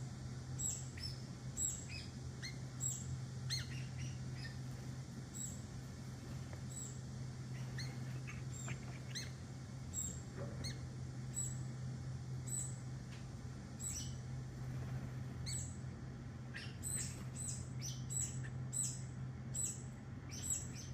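Vinous-throated parrotbills giving many short, high chirps in quick succession while being fed, with the calls coming thicker near the end. A steady low hum runs underneath.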